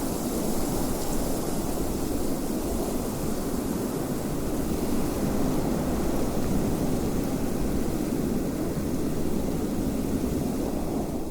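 Steady wind: a dense rushing noise, heaviest low down with a fainter hiss above, holding an even level.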